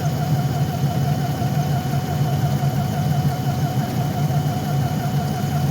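Ford Edge engine idling steadily in sub-zero cold, not fully up to running temperature.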